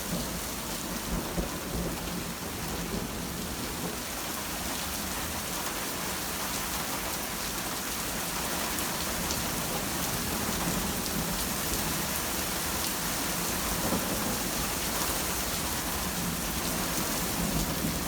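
Heavy rain pouring steadily during a thunderstorm, with low thunder rumbling underneath.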